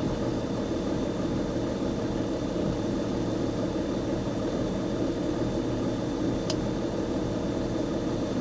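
BMW E46 330d's M57 inline-six common-rail diesel idling roughly when warm, with a single short click about two-thirds of the way through. The owner has found unsteady high-pressure fuel rail pressure at idle and suspects the pressure regulator, rail pressure sensor, high-pressure pump or wiring.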